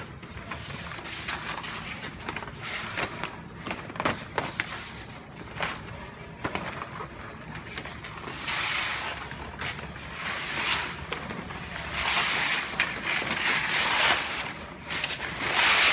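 Plastic shrink-wrap film rustling and crinkling as it is cut and handled, with scattered clicks and taps; the rustling grows louder about halfway through.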